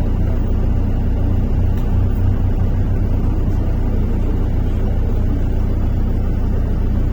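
MAZ-103 city bus heard from inside the passenger cabin while driving: a steady low rumble of engine and road noise.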